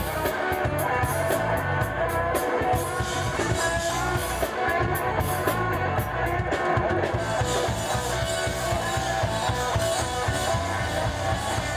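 Live band playing an instrumental disco-funk passage, led by guitar over a drum kit, loud and steady with no vocals.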